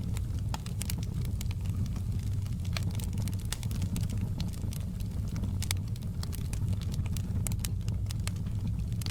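Wood fire in a fireplace burning, with frequent irregular sharp crackles and pops over a steady low rumble of the flames.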